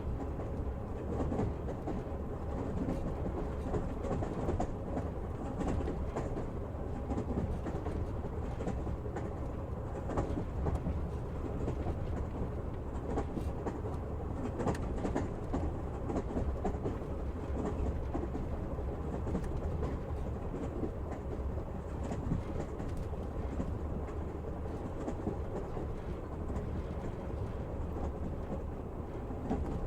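Passenger train running along the track, heard from inside the carriage: a steady low rumble with the clack of the wheels over the rails.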